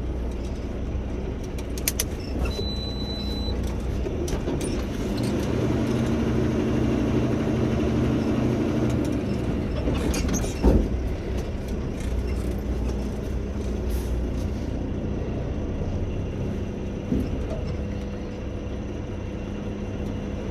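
Truck's diesel engine running steadily, louder for a few seconds in the first half, with scattered clicks and a short knock about ten and a half seconds in.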